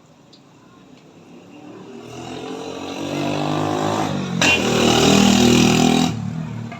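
A motor vehicle's engine passing close by, growing louder over a few seconds and then falling away sharply near the end.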